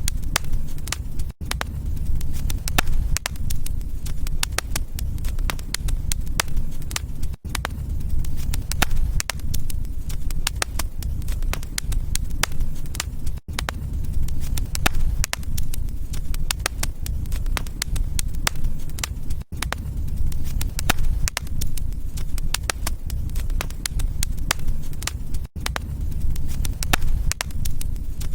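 Wood fire crackling steadily, many sharp crackles over a low rumble, with the sound briefly cutting out about every six seconds.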